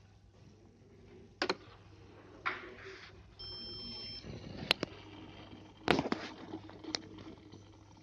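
A single steady electronic beep lasting under a second, about three and a half seconds in. Around it are several sharp clicks and knocks, the loudest two just after the beep.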